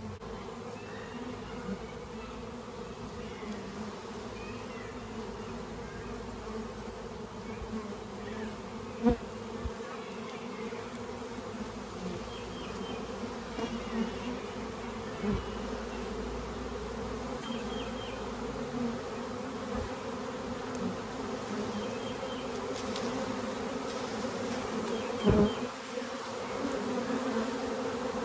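A swarm of honeybees buzzing as a steady, many-voiced hum, with a few brief knocks, the loudest a double knock about three-quarters of the way through.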